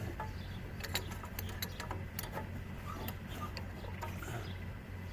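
Scattered light clicks and taps of small metal carburetor parts and tools being handled during disassembly, over a steady low hum.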